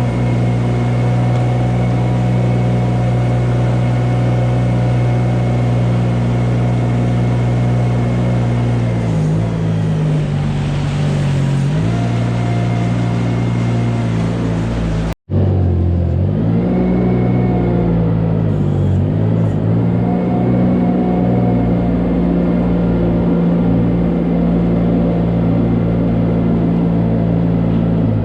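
Engine of a farm vehicle running steadily. Its pitch dips and recovers twice, and the sound cuts out for a split second about halfway through.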